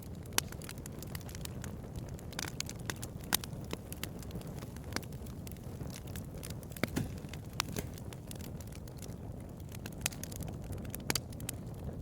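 Bonfire crackling: irregular sharp pops and snaps, a few louder ones, over a steady low rush of the burning fire.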